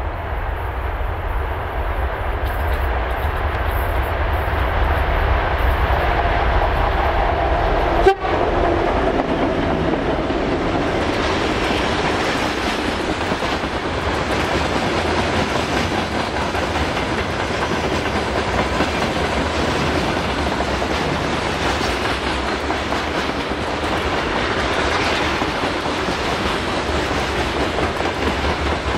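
Freight train passing close by: the 2M62U diesel locomotive's two-stroke engines rumble as it approaches, with a tone that drops in pitch as it passes. A sharp click comes about eight seconds in. Then the loaded hopper wagons' wheels clatter steadily over the rail joints.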